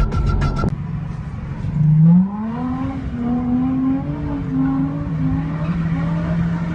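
Car engine accelerating: its pitch climbs about two seconds in and then holds high, wavering, over a steady lower engine drone.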